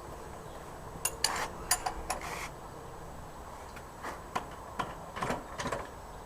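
Metal hand tools clinking and clicking against each other and against metal parts in a string of scattered, irregular knocks, as work starts on removing a motorcycle's front wheel.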